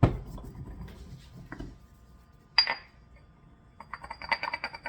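Kitchen utensils and dishes clinking: a dull knock at the start, one sharp ringing clink about two and a half seconds in, then a quick run of light clinks near the end.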